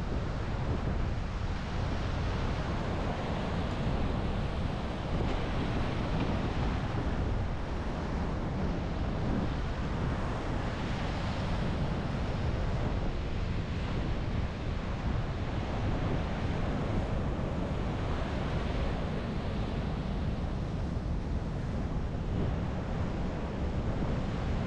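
Sea waves breaking on a beach, the surf surging and fading every few seconds, with wind rumbling on the microphone.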